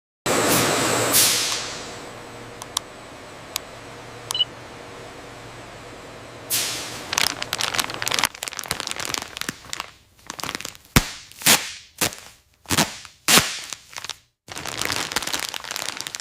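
A burst of hissing noise that fades, a few isolated clicks, then a run of loud, sharp cracks and knocks at uneven spacing in the second half.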